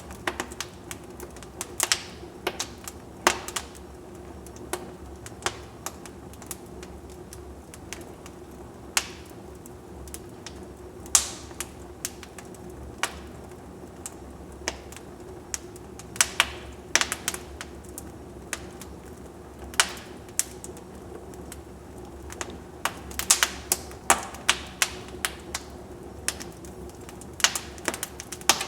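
Wood fire crackling in a fireplace: irregular sharp pops and snaps, sometimes several in quick succession, over a steady soft hiss.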